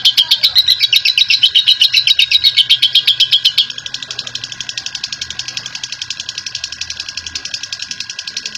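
Lovebird giving its long 'ngekek' chatter: a fast, even run of sharp, high notes, about eight a second. It drops suddenly in loudness about three and a half seconds in and carries on quieter.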